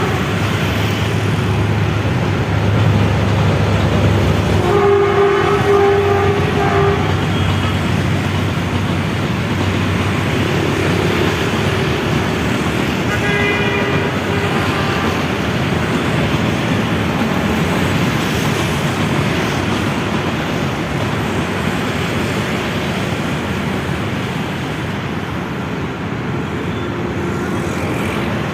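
Train running with a loud, steady rumble; its horn sounds twice, for about two seconds around five seconds in and again, fainter, around thirteen seconds in.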